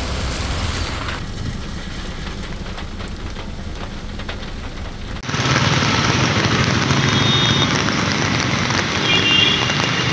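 Steady hiss of heavy rain falling. About five seconds in it cuts to a louder, fuller wash of rain and traffic noise on a wet city street.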